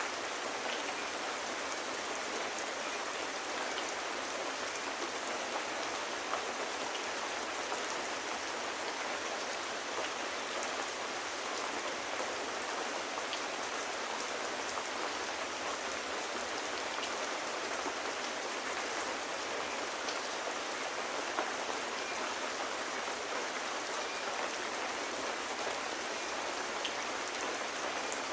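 Steady rain falling on hard surfaces, an even hiss with little low rumble, with occasional faint ticks of individual drops or small crackles.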